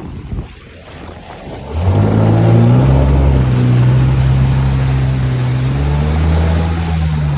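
Jet ski engine running on the water, quieter for the first couple of seconds, then opening up about two seconds in and running steadily at speed.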